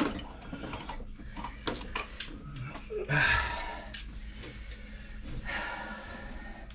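Plumbing torch with a small tip hissing in short rushes, the loudest about three seconds in, with small clicks and clinks of handled tools and fittings.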